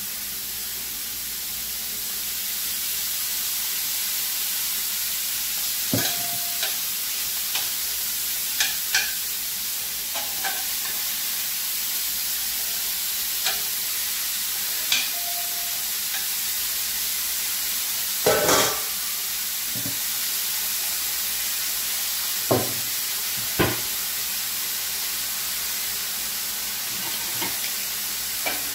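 Minced beef frying in a stainless steel pan, a steady sizzling hiss, with a handful of short knocks and scrapes of a cooking utensil against the pan.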